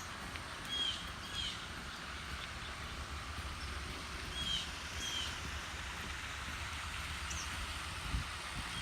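Small birds giving short chirps, two pairs of quick notes and a couple of higher single notes, over a steady outdoor hiss and a low rumble.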